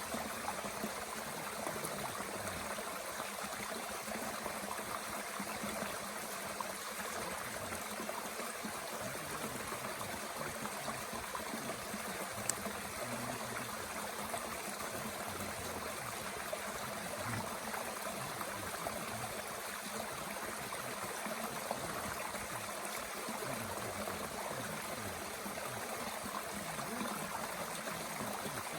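Mountain stream running steadily, with an occasional crackle from a small wood fire in a twig-burning stove, the sharpest one about halfway through.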